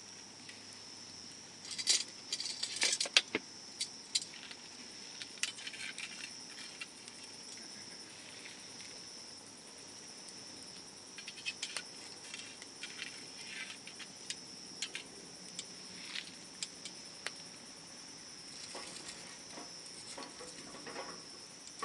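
Wood bonfire burning, crackling and popping in irregular sharp snaps, with a dense run of pops about two seconds in. Behind it runs a steady high-pitched tone.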